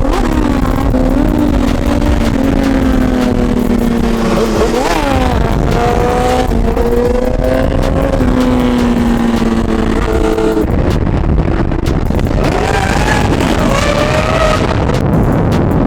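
Car engines running and revving amid traffic, with a quick rev about five seconds in; the low engine note drops away about ten and a half seconds in and higher, wavering engine notes follow.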